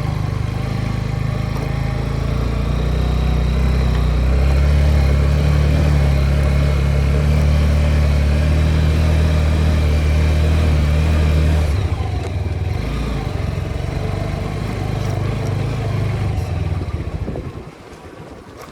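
TVS Apache motorcycle engine running under way, a steady low engine note that drops about twelve seconds in and dies away near the end.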